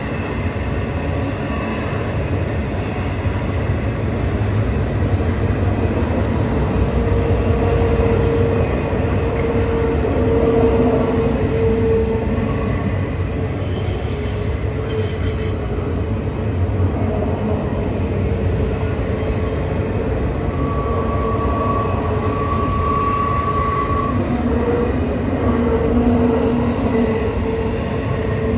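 A CSX double-stack intermodal freight train rolling steadily past on a curving trestle: a continuous rumble of wheels on rail, with wheels squealing on and off. A higher squeal joins for a few seconds past the two-thirds mark, and two short high-pitched squeaks come about halfway through.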